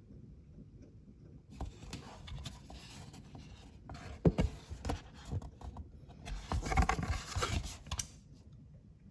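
Rustling and scraping handling noise in two spells, with a few soft knocks between them.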